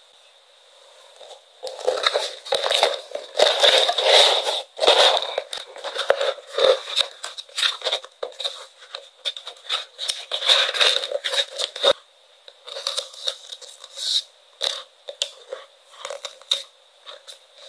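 Paper and plastic packing materials being crinkled and torn by hand as stationery is packed. After a quiet first second or so there are about ten seconds of dense crinkling and tearing, then sparser crinkles and light taps.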